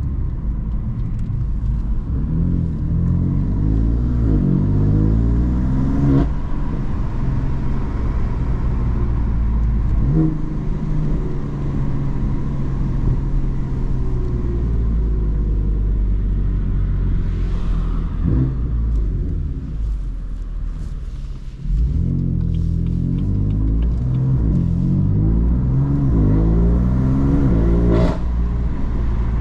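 BMW M3 F80's twin-turbo inline-six with an M Performance exhaust pulling hard, its pitch climbing and breaking off sharply at each upshift several times. It eases off for a moment about twenty seconds in, then accelerates again through the gears.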